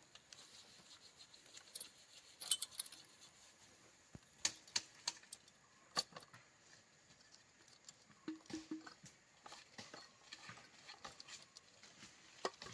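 Scattered faint clicks, taps and rustles, with a brief low hum about eight seconds in; no chainsaw is running.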